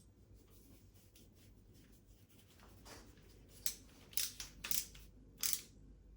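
Light clicks and scrapes of an IKEA Fintorp metal rail and hooks being handled and worked into place, about six short strokes in the second half after a quiet start.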